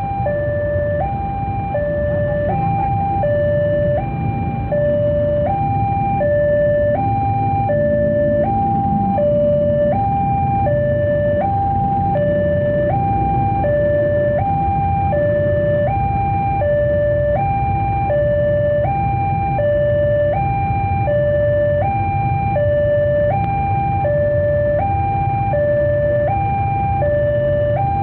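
Electronic railway warning alarm sounding a steady hi-lo two-tone, switching pitch about every three-quarters of a second without change. A low, steady rumble from the slowly passing container train runs beneath it.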